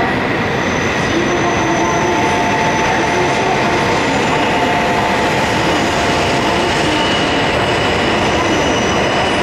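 Shinkansen bullet train moving along the station platform: a steady loud rush of wheels and running gear with faint high whining tones over it.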